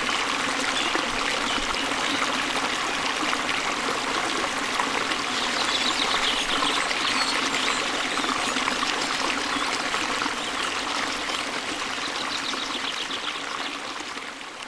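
Shallow stream water babbling and trickling steadily over stones, slowly fading out over the last few seconds.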